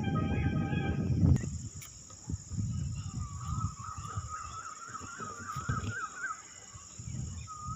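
Steady high drone of insects in the forest, with a bird's wavering, warbling call in the middle. Loud low rustling and knocking fills the first second and a half, with softer low thuds after.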